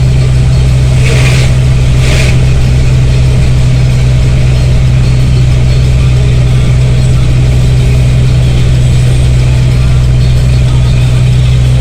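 Bus engine droning steadily from inside the bus, with two short hisses about one and two seconds in.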